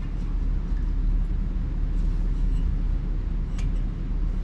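Steady low hum, with a couple of faint light clicks about two seconds in and near the end.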